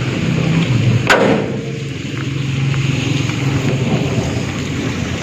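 Heavy rain falling steadily, with a low steady hum underneath and a single sharp crack about a second in.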